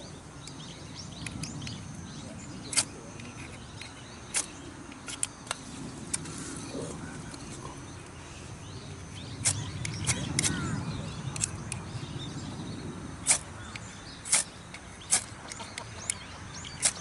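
About a dozen short, sharp clicks at uneven intervals, over a low rumble that swells about ten seconds in.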